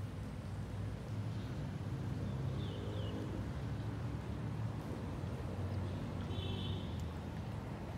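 Outdoor ambience: a steady low rumble, with short high bird chirps about three seconds in and again near seven seconds.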